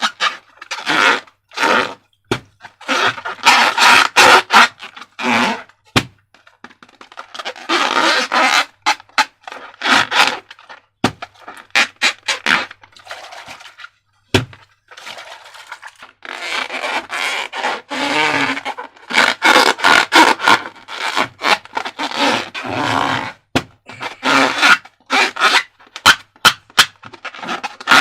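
Slime and balloons being squeezed and handled: irregular bursts of crackling and scraping, with many sharp clicks and taps between them.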